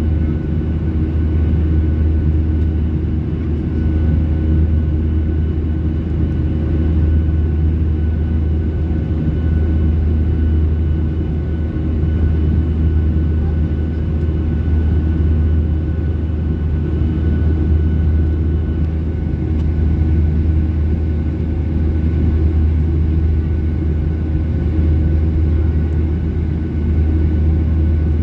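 Cabin noise inside a Boeing 737-800 in flight: a steady, deep drone of engines and airflow with faint steady whine tones over it.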